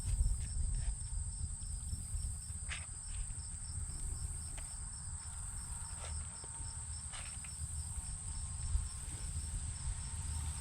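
Insects chirring steadily, a continuous high trill together with a regular series of rapid pulsed chirps, over a low rumble, with a few faint clicks.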